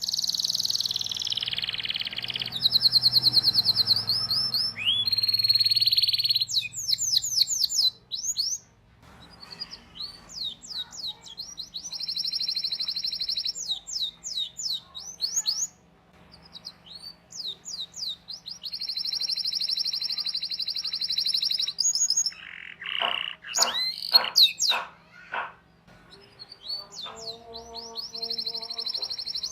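Domestic canary singing long, tight trilled rolls broken by runs of quick sweeping 'cuit cuit' chirps, phrase after phrase with short pauses between.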